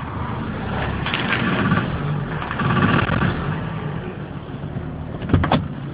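Volvo 850 AWD's five-cylinder engine revved under heavy load as the viscous coupling tries to drive the rear wheels against the applied handbrake and a wooden block in front of a wheel. The revs swell and ease off, and a few knocks come near the end.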